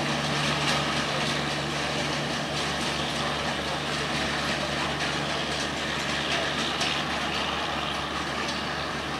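Diesel-hauled passenger train running away along the track: a steady rumble of wheels on rails with a low engine drone and faint clicks, getting slowly quieter.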